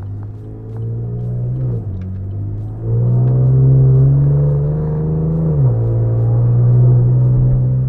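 Chevrolet Camaro V6 engine and exhaust heard from inside the cabin, pulling under acceleration: the engine note climbs and then drops sharply twice as the car shifts up, loudest in the middle pull.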